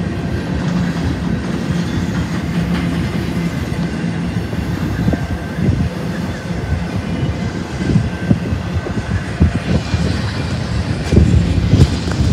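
Intermodal freight train cars rolling past: a steady rumble of steel wheels on rail with a low hum in the first half. Irregular clanks and knocks from the wheels and couplers grow more frequent from about halfway through.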